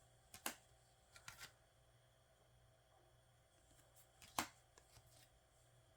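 Photocards being handled and flipped through: a few brief, light clicks and slides, the loudest about half a second in and about four and a half seconds in, against near silence.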